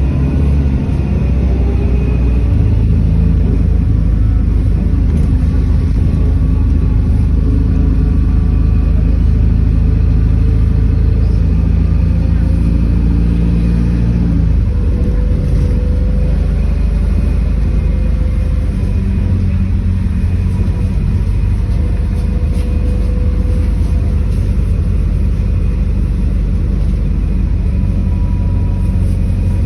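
City bus engine running while the bus drives, heard from inside the bus: a steady low drone whose note changes about halfway through, with a fainter whine that slowly rises.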